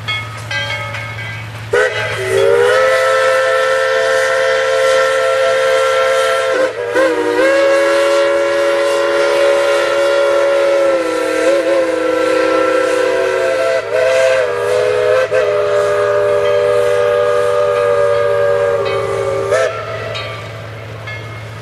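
Steam locomotive chime whistle blown in one long blast of about 18 seconds, several notes sounding together as a chord. The pitch sags and recovers briefly a few times as the valve is worked.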